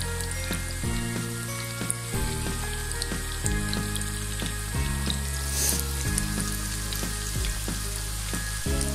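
Cabbage pakoras deep-frying in hot oil in a wok: a steady sizzle peppered with small pops and crackles, with a brief louder hiss about five and a half seconds in.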